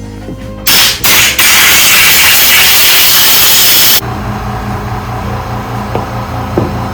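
Compressed-air blow gun blasting air through carburetor parts to clean them out: two short blasts, then a sustained blast of about two and a half seconds that cuts off suddenly. A quieter steady low hum follows.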